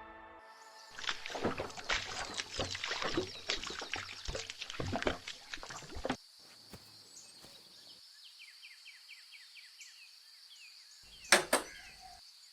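A quick, dense run of clicks and rattles for about five seconds, then a faint steady high-pitched tone with a few short chirps, and two sharp knocks near the end.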